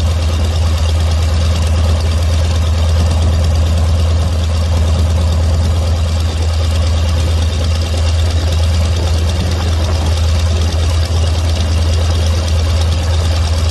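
Nanchang CJ-6's nine-cylinder Huosai HS6 radial piston engine idling steadily after start-up.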